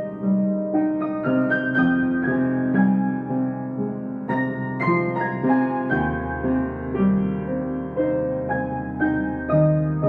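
Solo piano playing a slow, gentle melody in a steady run of struck, sustained notes. A deep bass note comes in about six seconds in.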